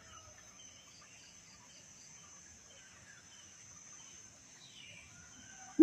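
Steady high-pitched insect trill with faint scattered bird chirps. Right at the end, a greater coucal's series of deep, hollow hoots begins.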